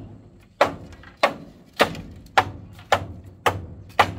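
Steady chopping or hammering on wood: seven sharp blows about every half second, each dying away quickly.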